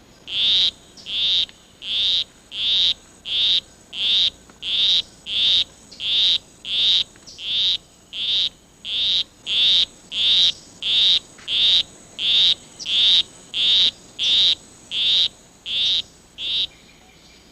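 Male poison arrow frog's courtship call: a monotonous series of short, high notes, about three every two seconds, stopping shortly before the end.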